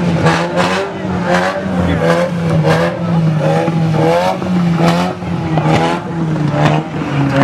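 Car engines running and revving, the pitch wavering up and down in repeated surges.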